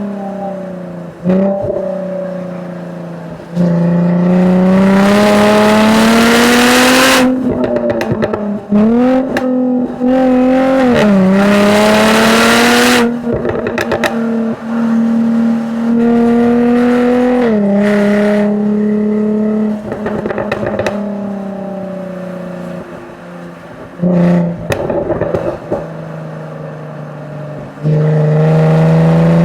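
2013 Jaguar F-Type V6 S's supercharged 3.0-litre V6 under hard acceleration on track, its pitch climbing through the gears with brief breaks at each shift. In between it lifts off, the tone falling with sharp cracks from the exhaust on the overrun, and it pulls hard again near the end.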